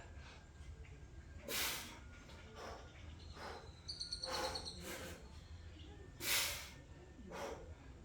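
A man breathing hard through a set of bodyweight squats, with sharp forceful exhales. The two loudest come about a second and a half in and about six seconds in, with quieter breaths between. A brief high thin squeak sounds about four seconds in.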